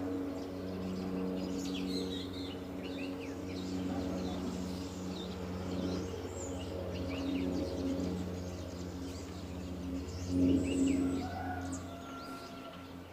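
Small birds chirping and twittering, many short high calls throughout, over a steady low drone with a few held tones.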